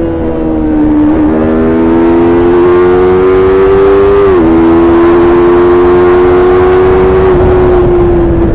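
Stock Yamaha YZF-R3's 321 cc parallel-twin engine running under way, its note climbing slowly and dropping abruptly twice, about a second in and again past four seconds, as it shifts up, then holding steady. A low rumble of wind and road runs underneath.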